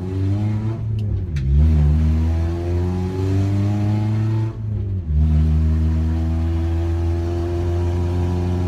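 Honda H23 2.3-litre inline-four engine of a CB7 Accord heard from inside the cabin, revs climbing for about four seconds, then briefly cut at a gear change about halfway through, after which it runs at a steady speed. It is really loud, the O2 sensor being open to the air, which the driver blames for its false reading.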